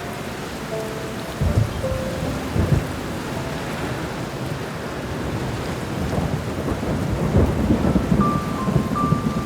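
Steady rain falling with thunder rumbling: short low rumbles about a second and a half in and near three seconds, then a longer rolling rumble from about six seconds to near the end. A few sparse piano notes sound over the rain.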